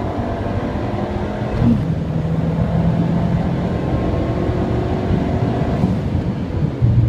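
Ford Fiesta ST's turbocharged four-cylinder, fitted with an upgraded Cyborg turbo, accelerating hard from inside the cabin, its note rising steadily as the revs climb. Near the end the sound changes suddenly to a steady lower drone.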